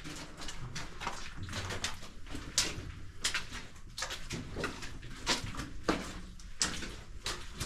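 Footsteps in a mine tunnel, a step about every half second to second, over a low steady hum.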